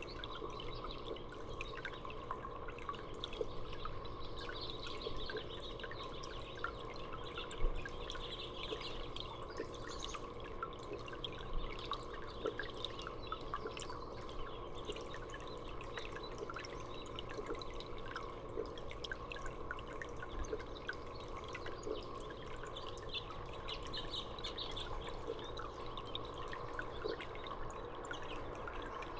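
Water dripping and trickling steadily, with scattered faint bird chirps over a steady low hum.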